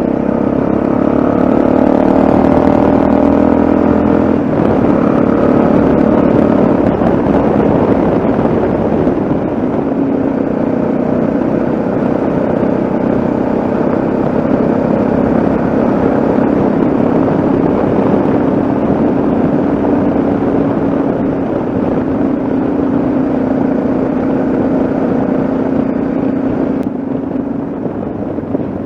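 Yamaha XT660Z Ténéré's single-cylinder engine running as the bike rides along at a steady speed, over a constant rush of wind and road noise. The engine note changes about four seconds in, then holds steady.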